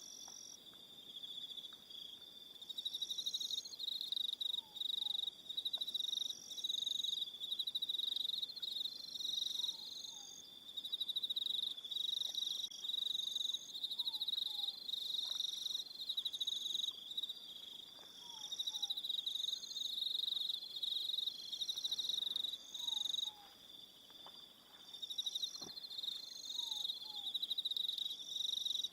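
Evening chorus of crickets chirring in a dense, fast-pulsed high trill that swells and eases every few seconds. Faint pairs of short falling notes recur every few seconds beneath it.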